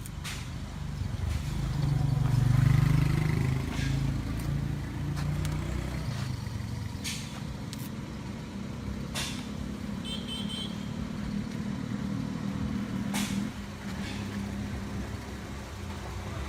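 A motor vehicle's engine running, swelling louder about two to three seconds in, with a few sharp clicks.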